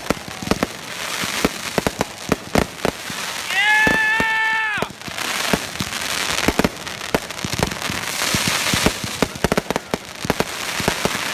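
Consumer fireworks going off: a dense run of sharp bangs and crackling pops, with a high, held whistle-like tone lasting about a second, about four seconds in.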